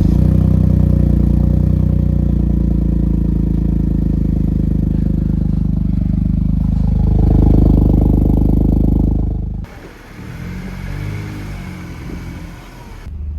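Toyota GR Yaris's turbocharged three-cylinder engine, fitted with a Milltek aftermarket exhaust and downpipe, fires up and runs at a loud, steady high idle, then swells with a short rev about seven seconds in. The sound cuts off abruptly just before ten seconds, leaving a much quieter engine note.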